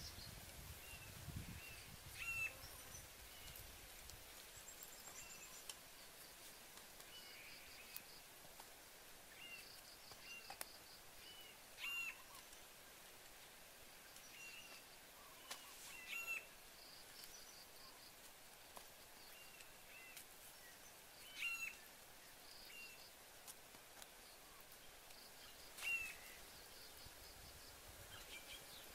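Wild birds calling in dry forest: a louder call rings out about five times at irregular gaps, with softer chirps and short high trills in between, over faint outdoor background.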